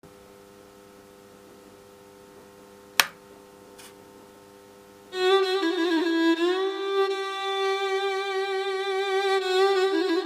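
Background music: a faint held drone, then about five seconds in a solo bowed string instrument, violin-like, enters playing a slow melody with sliding notes. A single sharp click sounds about three seconds in.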